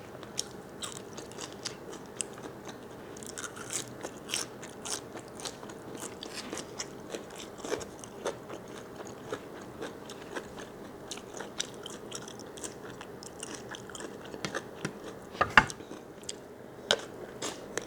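Close-miked chewing and biting of large squid: a steady run of irregular small clicks and smacks from the mouth, with one louder bite about fifteen and a half seconds in.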